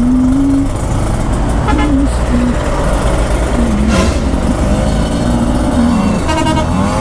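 Kawasaki Ninja RR 150's two-stroke single-cylinder engine running, its note wavering a little. A vehicle horn toots briefly about two seconds in and again near the end.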